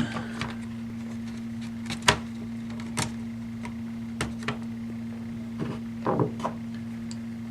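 Scattered small clicks and taps from handling laptop parts during disassembly, the sharpest about two seconds in and a short cluster near six seconds, over a steady low electrical hum.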